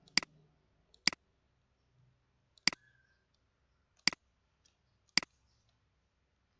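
Computer mouse button clicking five times, single sharp clicks spaced about one to one and a half seconds apart.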